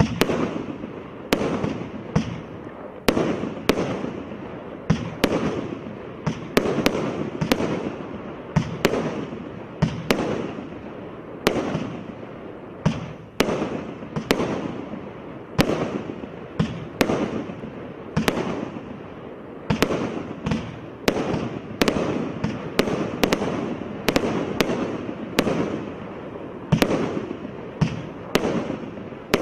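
Absolute Fireworks 'Twisted Twins' firework going off: a steady run of sharp bangs, about one to two a second, each followed by a fading hiss and crackle.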